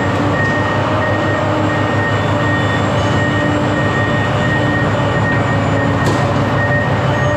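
Steady, loud vehicle running noise: a low rumble with a few steady whining tones held throughout.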